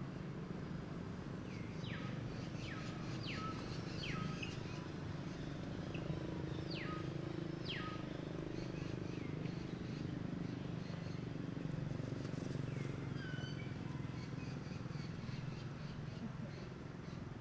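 Birds chirping outdoors: short, quick chirps that each sweep downward in pitch, repeating irregularly, over a steady low background hum.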